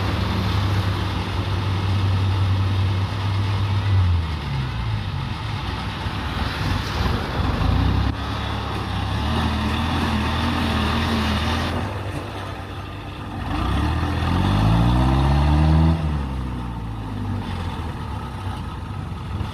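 Diesel engine of a tracked combine harvester running under varying load. It holds a steady tone for the first few seconds, then shifts, and near the end revs up in pitch and falls back.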